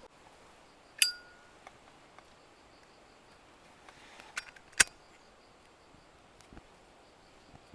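Hard objects clinking together: a sharp clink about a second in that rings briefly, then two more sharp clinks close together near the middle.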